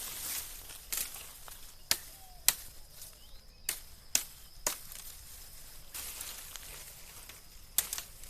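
Knife chopping at wood or branches: about seven sharp, irregularly spaced strikes, with a rustling of twigs between them.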